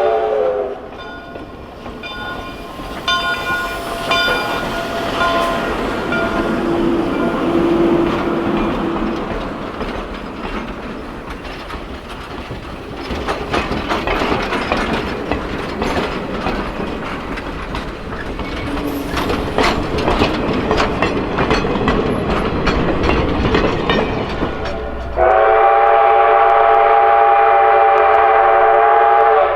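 Steam train running, its wheels clicking over rail joints under a steady rumble, with the locomotive's several-note whistle cutting off just after the start and sounding again in one long blast of about four seconds near the end.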